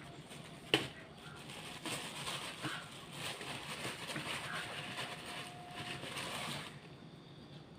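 A person chewing and smacking while eating karedok, a raw vegetable salad in peanut sauce, with a sharp click about a second in.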